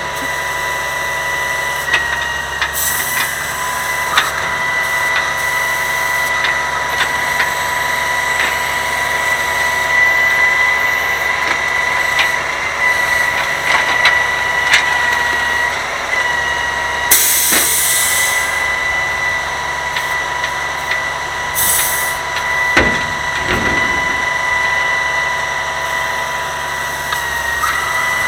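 Grapple garbage truck running, with a steady high whine throughout. Three short bursts of air hiss break in, along with scattered clicks and knocks.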